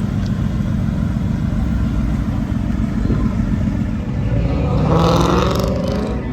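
Car engine running with a deep, uneven low rumble, and a brief higher-pitched rise and fall about five seconds in.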